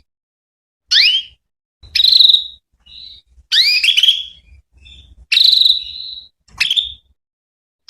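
Female canary calling: a series of short chirps, about one a second, most sweeping quickly upward in pitch and some ending in a briefly held note.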